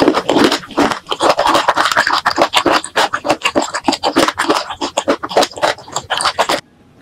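Close-miked ASMR chewing of spicy boneless chicken feet, with their cartilage: a dense, rapid run of clicky mouth sounds that cuts off suddenly near the end.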